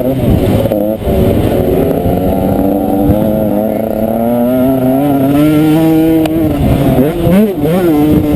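Motocross bike engine revving hard, its pitch climbing steadily through the middle and then rising and falling quickly several times near the end as the throttle is blipped and released.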